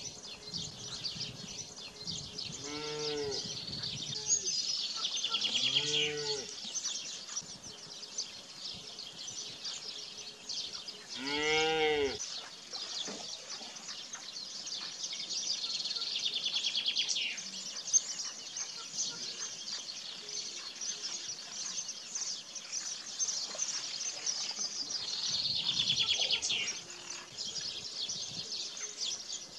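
Cattle mooing three times: about three seconds in, about six seconds in, and again around eleven to twelve seconds in. Under and around the moos runs a steady chorus of high bird chirping.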